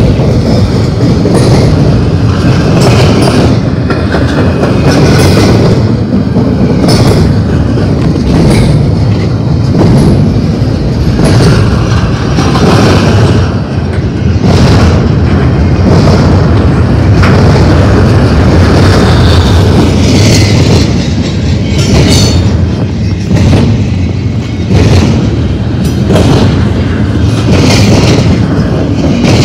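Double-stack intermodal container train's well cars rolling past at close range: a loud, steady rumble of steel wheels on rail, with a sharp clack every second or two as each set of wheel trucks goes by.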